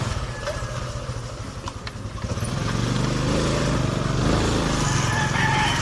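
Honda RS125 Fi's single-cylinder fuel-injected engine running as the motorcycle is ridden, easing off briefly and then pulling up again about two and a half seconds in as it accelerates, with wind noise on the microphone.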